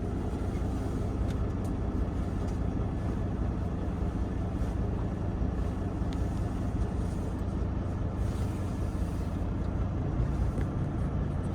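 Semi truck's diesel engine idling, a steady low hum with no change in speed.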